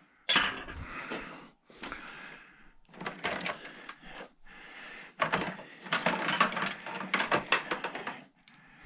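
Small pieces of scrap metal clinking and clattering as they are handled and dropped into a bucket, with a sharp clink near the start and a denser run of clatter in the second half.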